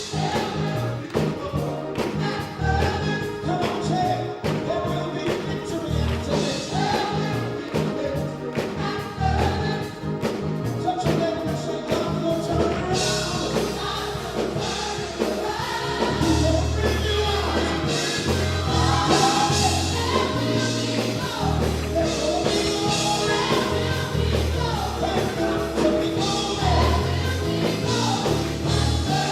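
Gospel music: voices singing over a band with drums and bass, growing fuller and brighter about thirteen seconds in.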